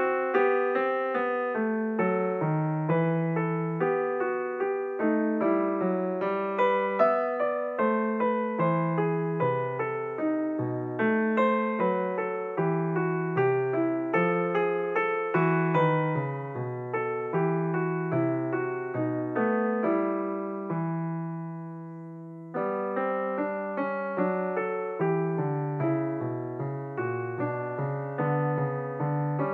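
Background piano music: a gentle stream of notes and chords. About twenty seconds in, a held chord dies away and the playing starts again a couple of seconds later.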